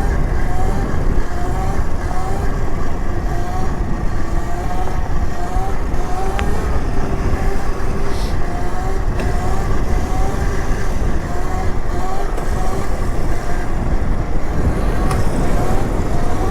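Wind rush and trail rumble while riding an electric mini dirt bike, steady throughout. Over it, a short rising tone repeats about twice a second.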